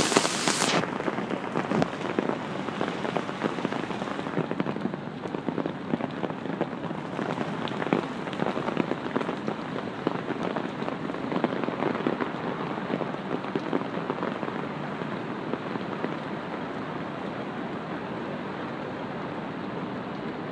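Heavy rain falling, with a dense patter of drops striking the umbrella held over the phone. A brief loud rush of noise comes at the very start, and near the end the crackle of single drops thins to a steadier hiss.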